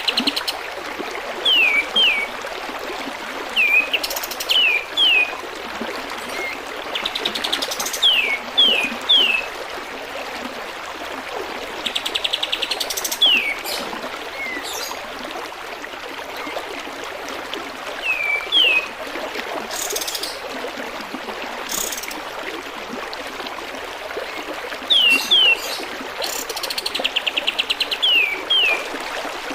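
Olive-winged bulbul (kapas tembak) calling: short downward-sliding whistled notes, often in pairs, with a rapid chattering burst every few seconds. Steady trickling water runs beneath it.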